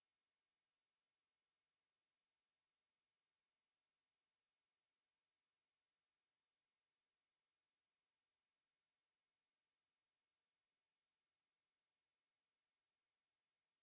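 A pure 10766 Hz sine-wave test tone, one steady high-pitched whistle at constant level.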